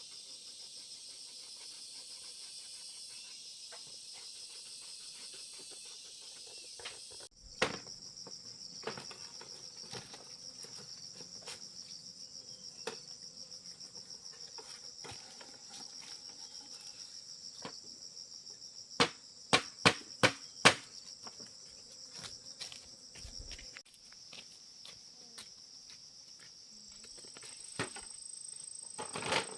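Crickets or similar insects chirping steadily in a fast high-pitched pulse, with scattered sharp knocks, the loudest a run of four strikes about two-thirds of the way through.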